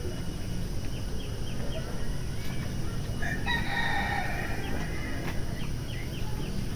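A rooster crows once, about three seconds in, over a steady low rumble, with short high chirps of small birds before and after.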